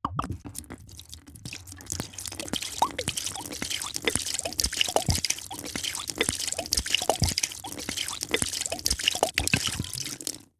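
A drink being poured: a dense run of dripping, bubbling drops of liquid with many small plops, cutting off abruptly near the end.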